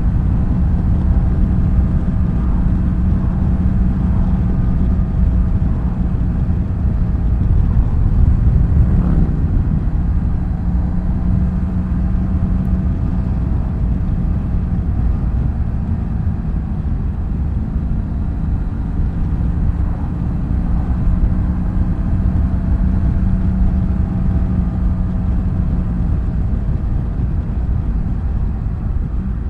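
BMW F800GS parallel-twin engine running at a steady cruise, with wind and road rumble. About nine seconds in, the engine note dips and rises again as the throttle eases and comes back on.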